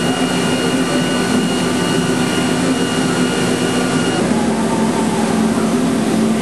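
Mazak CNC machine running during 4th-axis machining: a steady mechanical drone with a high whine that stops about four seconds in.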